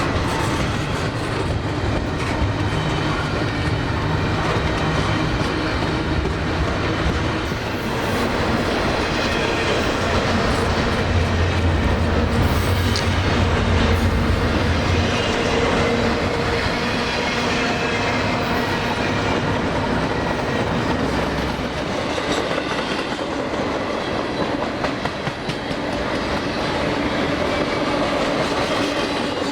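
Freight train rolling past, its steel wheels clacking steadily over the rail joints under a low rumble.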